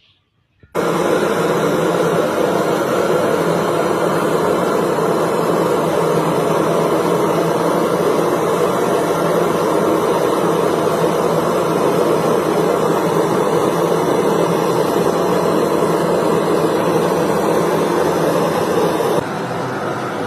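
Gas brazing torch flame running steadily while heating a copper water pipe joint. It starts abruptly about a second in and drops a little in level near the end.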